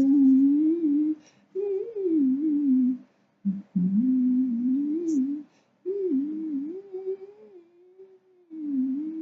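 A voice humming a wandering tune in short phrases with brief pauses between them, over a steady low tone.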